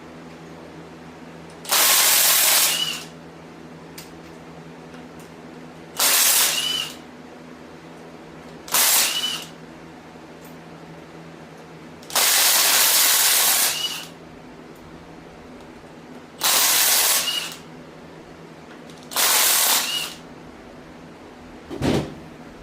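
Six short blasts from a compressed-air blow gun, each lasting about one to two seconds and ending in a brief chirp as the trigger is let go, blowing dirt out around the cylinder head bolts. A shop fan hums steadily underneath, and a single knock comes near the end.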